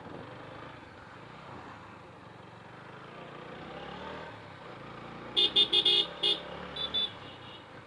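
A vehicle horn tooting about five times in quick short blasts, then twice more, more faintly, over the steady rumble of a motorcycle ride on the road.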